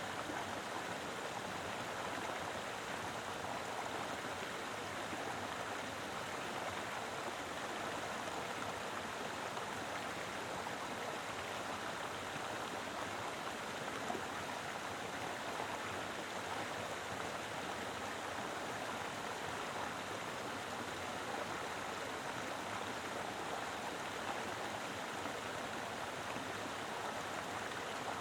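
Mountain river flowing steadily over rocks, a full, even rush of water with no breaks.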